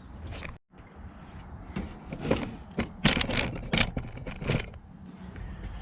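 Hands working wire paper clips through the furnace's screen mesh and Kaowool ceramic fibre lining: a series of short scraping, rustling handling sounds, several of them close together in the middle.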